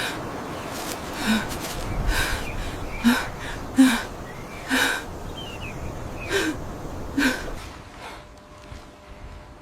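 A person gasping and panting, with about eight short, sharp breaths roughly a second apart that die away near the end.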